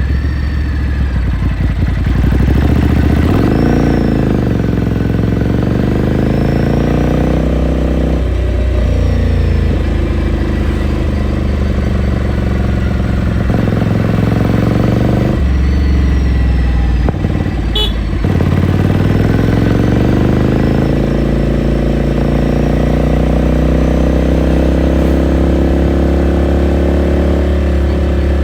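Ducati Scrambler Sixty2's 399 cc air-cooled L-twin running on the road, heard onboard: the revs rise and fall through several gear changes. About two-thirds of the way in the engine drops to a low steady note for a couple of seconds, a sharp click sounds, and then the revs climb steadily.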